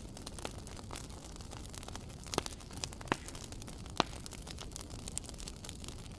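Wood fire crackling in a fireplace: many small ticks and snaps over a soft low rushing noise, with three louder pops about two and a half, three and four seconds in.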